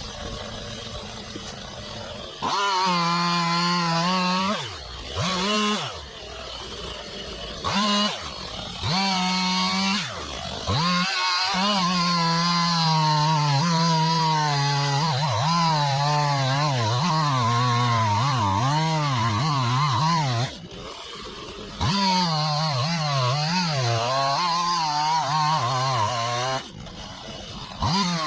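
Chainsaw revving to full speed and cutting wood, its pitch wavering under load, dropping back to idle several times between cuts.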